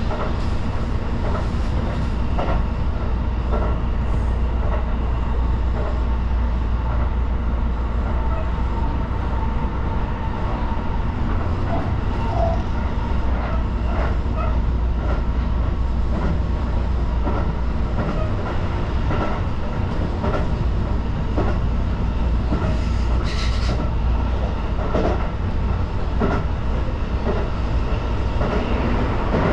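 Electric commuter train running at speed, heard from inside the front car: a steady low rumble with scattered clicks of the wheels over the rail joints. A brief hiss comes about three-quarters of the way through.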